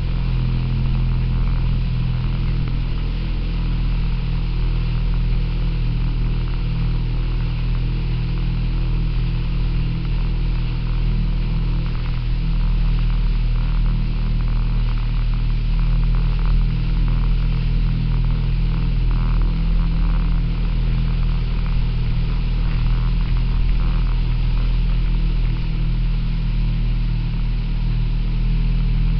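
Motorboat engine running at a steady speed, with a constant low drone.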